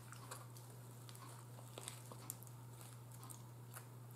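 Faint chewing of a bite of a Subway sandwich, with a few soft, short mouth clicks over a steady low hum.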